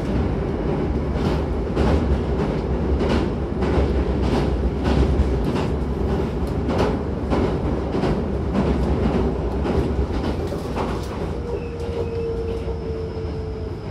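Hankyu 9000-series electric train running, heard from inside the car: a steady rumble with regular clacks of the wheels over rail joints about twice a second. A thin tone comes in near the end, sinking slightly.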